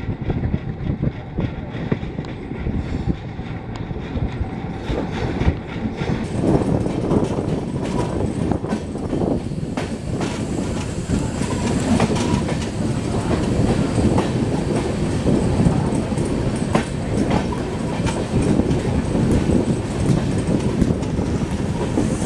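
Hemkunt Express passenger coaches running on the track, heard from inside a moving coach: a steady rumble with the clickety-clack of wheels over rail joints, getting louder about six seconds in.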